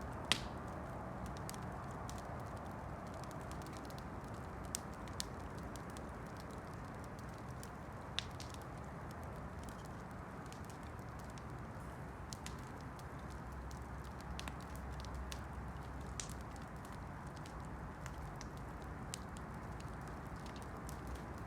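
Wood campfire burning with a steady low rush and scattered sharp crackles and pops, the loudest pop right at the start.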